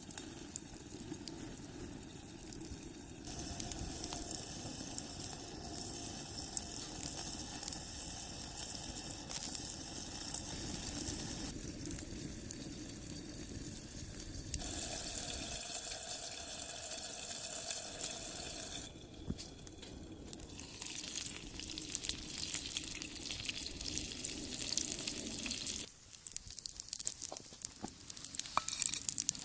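Gyoza sizzling in a cast-iron skillet over a wood fire, a steady hiss that shifts abruptly several times. Near the end the sizzle drops away, leaving scattered sharp crackles of the fire.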